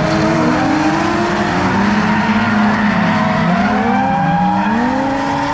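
Several drift cars running together, their engines revving and dropping in pitch at once and overlapping, with tyre squeal under them.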